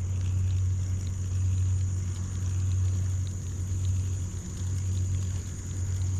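A steady low mechanical hum, unchanging throughout, with a thin steady high-pitched whine above it and a few faint ticks.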